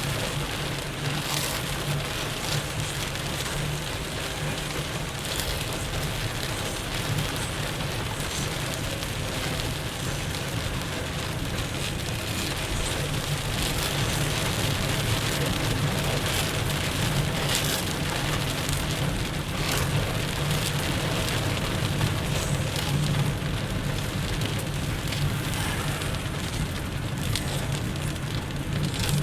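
Heavy rain falling on a moving car, over a steady low drone of engine and tyres on the wet road.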